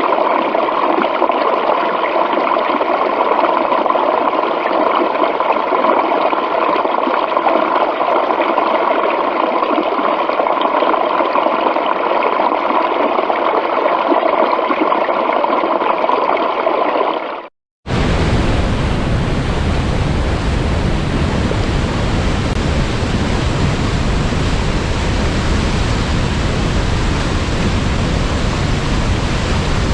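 Steady rush of running stream water. About two-thirds of the way through it dips out for a moment and gives way to a different water recording, a fuller, deeper and brighter waterfall rush.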